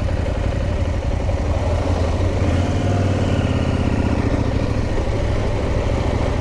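Adventure motorcycle engines running, with a steady low engine note throughout. A second engine note rises and falls in the middle as a bike is ridden through the bend.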